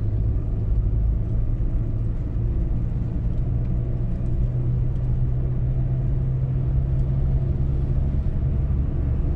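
Cabin sound of a 1999 Audi A4 B5 with its 1.9 TDI diesel engine accelerating in third gear: a steady low engine drone with road noise as the revs climb slowly toward 2,200 rpm. The four-speed automatic gearbox, fitted with a new G38 speed sensor, is pulling in third ahead of its shift to fourth.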